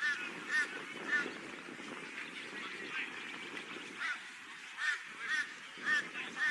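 A bird giving short calls again and again, about nine in all, some singly and some in quick pairs, over a steady low background noise.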